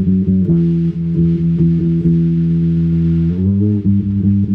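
Electric guitar and bass guitar playing a riff of repeated low notes at a steady pulse, moving up to a higher chord a little past three seconds in.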